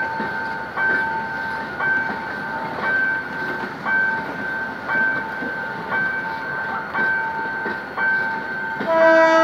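Passenger coaches rolling past with a steady rumble while a warning bell dings about once a second. Near the end a train horn starts sounding, louder than the bell.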